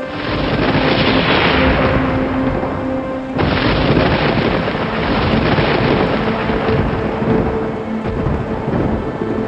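Heavy rain with deep rolling thunder rumble, as a steady dense wash with a sudden jump in the hiss about three and a half seconds in, under soft relaxing music with long held notes.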